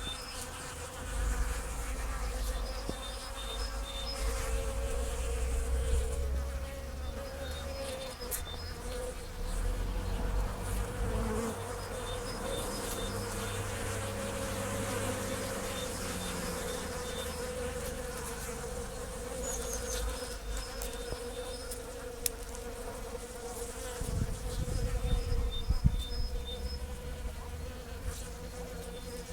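Honeybees buzzing steadily as they forage for seed dust at a bird feeder, a continuous hum. Small groups of short high chirps come through at intervals.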